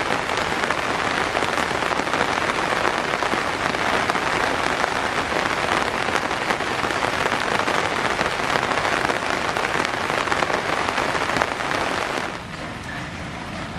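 Heavy rain falling in a dense, steady patter. About twelve seconds in it drops suddenly to a quieter, steady hiss.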